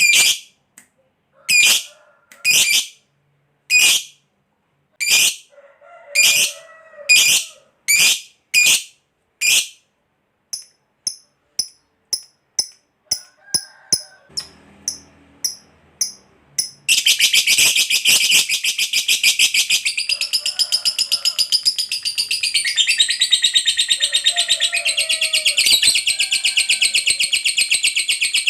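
Lovebird calling: a string of single sharp shrieks, then a few short quieter chirps. A little past halfway it breaks into one long, unbroken, very rapid chattering trill, the 'ngekek panjang' of a bird in full song.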